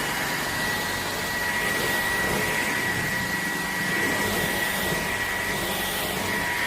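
Shark Detect Clean & Empty cordless stick vacuum running steadily: an even rush of air with a thin, steady high whine over it.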